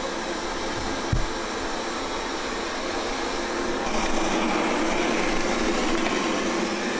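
Qihoo 360 S9 robot vacuum running steadily as it cleans, its motor and brushes giving an even whirring hiss that grows a little louder partway through. A brief low knock about a second in.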